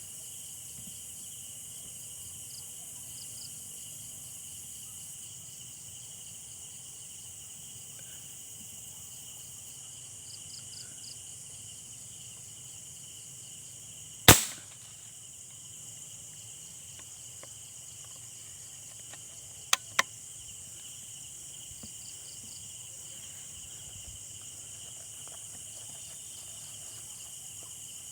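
Night insects and crickets chirping steadily, with one loud sharp shot from a hunting gun about halfway through and two quick clicks close together about five seconds later.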